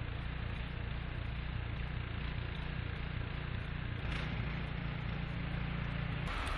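Steady low rumble under a hiss of outdoor background noise, changing abruptly near the end.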